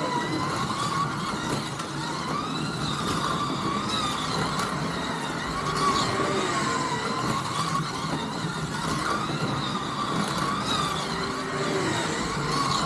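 Scalextric slot car electric motors whining around the track, the pitch rising and falling over and over as the cars speed up on the straights and slow for the corners.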